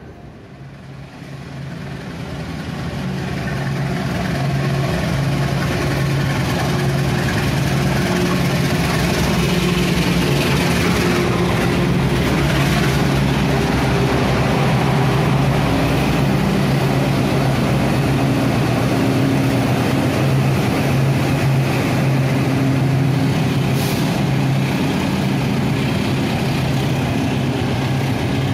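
Diesel-hauled passenger train at a station platform: a steady diesel engine drone with several held low tones. It swells over the first few seconds, then stays loud.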